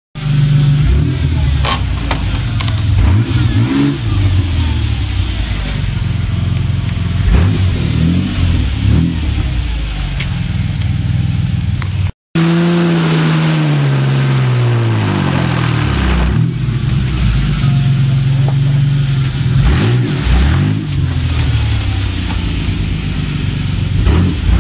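Vehicle engine running and revving repeatedly, its pitch rising and falling. There is a brief cut about twelve seconds in, after which a long rev winds down.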